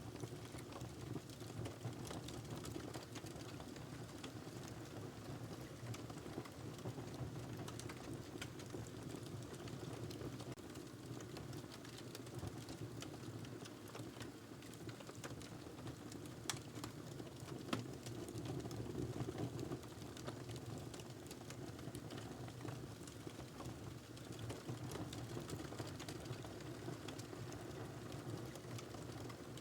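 Fire burning in a fireplace: a steady low rustle of flames with frequent small crackles and pops, and two sharper pops a little past the middle.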